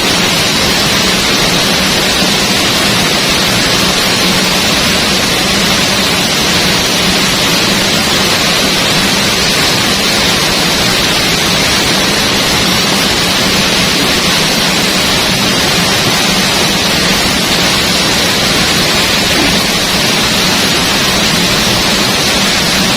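Steady, loud roar of a waterfall: water falling into a pool, an even rushing noise that does not change.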